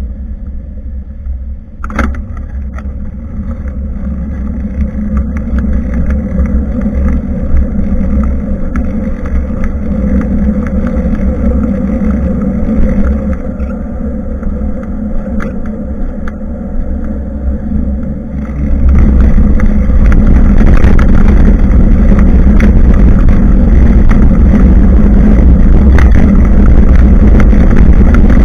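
Wind buffeting and road rumble on a bicycle-mounted action camera's microphone during a ride, a steady low rumble with a sharp click about two seconds in. About two-thirds of the way through it abruptly gets louder and fills out into a harsh rushing noise.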